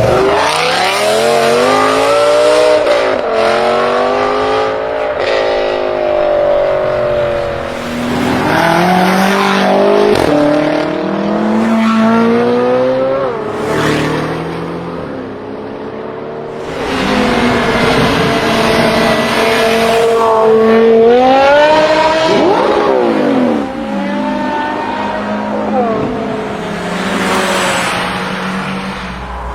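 High-performance BMW car engines revving hard and accelerating, the engine note climbing and dropping again and again as the cars pull away or pass. Near the middle one engine holds a high steady note, then climbs sharply.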